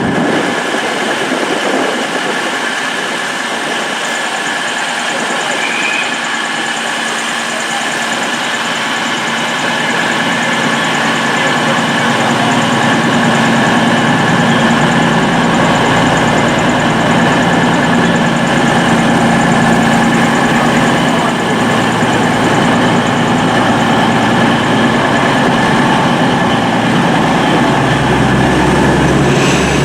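Train running with a steady engine hum. A deeper engine note builds over the last several seconds as it powers up.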